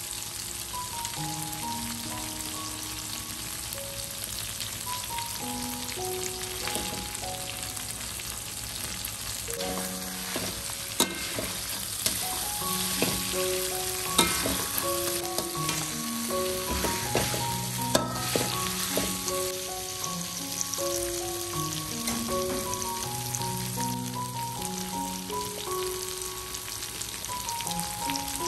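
Chili paste sizzling in a wok as fried chicken pieces are added and stirred through it, with a few sharp knocks from the stirring around the middle. Soft background music with a melody plays throughout.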